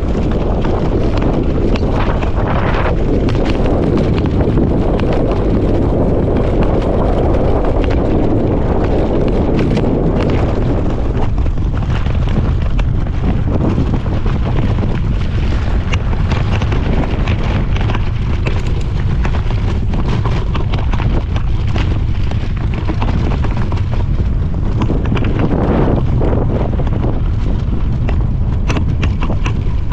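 Wind buffeting the microphone: a loud, steady rumble with no pauses.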